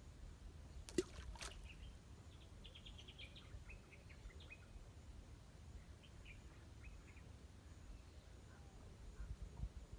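Small birds chirping faintly in quick runs of short notes, over a low steady rumble, with two sharp clicks about a second in.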